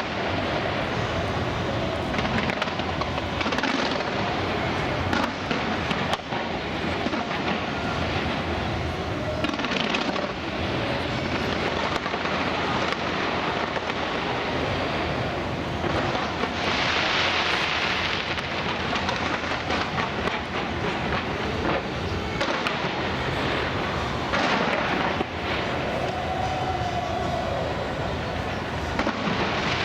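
Fireworks going off continuously, a dense run of booms and bangs with crackling, and a loud burst of crackling hiss about halfway through.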